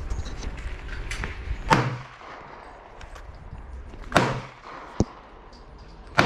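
Four gunshots at a shooting range, each a single sharp report followed by a short low echo, spaced one to two seconds apart. The third is shorter and crisper than the others, and a steady low rumble stops at the first shot.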